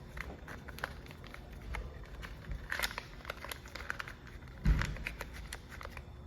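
Parts and tools being handled on a string-trimmer clutch job: a run of light clicks and crinkly rustling, with one heavier thump about three-quarters of the way through.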